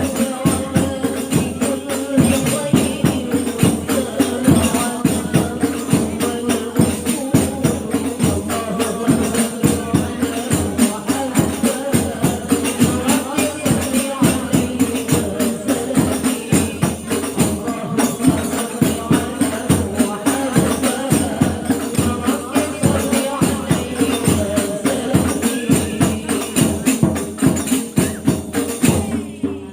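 Hadroh ensemble: frame drums and tambourine jingles beat a steady, quick rhythm under a group of women singing sholawat. It stops suddenly near the end.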